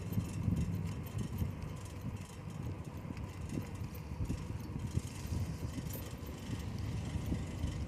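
A bicycle in motion: wind buffeting the microphone as an uneven low rumble, with tyre and road noise underneath and faint light ticks.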